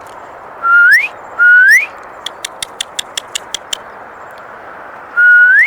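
A person whistling to call birds to the feeding spot: short loud notes, each held level and then sliding upward, two close together about a second in and another near the end. Between them comes a quick run of about nine sharp clicks.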